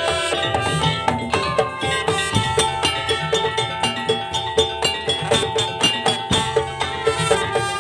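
Madurese daul (tong-tong) ensemble playing: quick, even strikes on wooden and bamboo percussion and drums under a held pitched melody.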